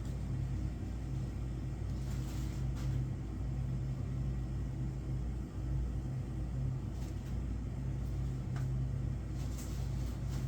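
A steady low mechanical hum, with a few faint brief knocks or rustles over it.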